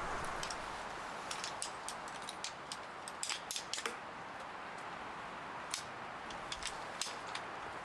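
A series of light, irregular clicks and taps, most of them bunched in the first half with a few more spaced out later, over a faint steady background hiss.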